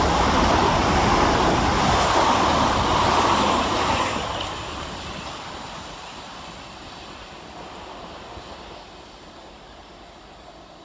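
Class 387 electric multiple units passing each other through the station: a loud rush of wheels on rail that begins to fade about four seconds in and dies away steadily as the trains move off.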